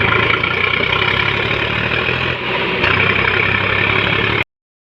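Indofarm 3055NV tractor's diesel engine running steadily, with a brief dip about two and a half seconds in; the sound cuts off abruptly near the end.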